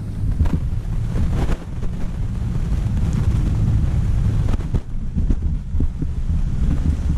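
Honda CRF dirt bike running on a motocross track, its engine a low rumble under heavy wind buffeting on the microphone, with a few brief knocks.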